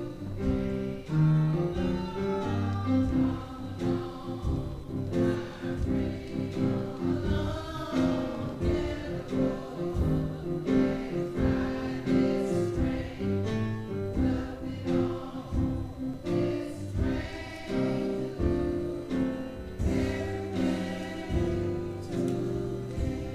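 Gospel music: a choir singing over instruments with a steady beat, fading down near the end.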